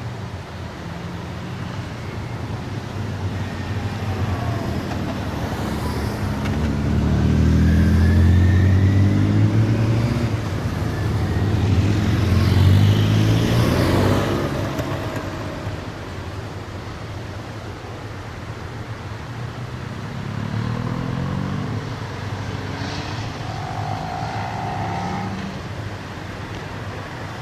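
Several Porsches driving the hairpin bends of a mountain pass, their engines accelerating with rising pitch. The sound swells twice to a loud peak as cars pass, then eases to a lower, steadier engine sound.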